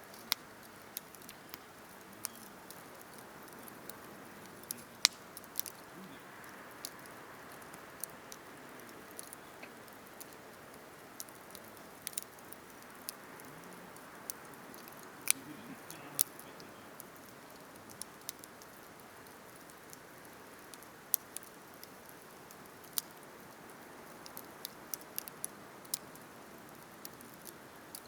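Wood campfire burning: irregular sharp crackles and pops from the burning wood over a steady soft hiss of the flames.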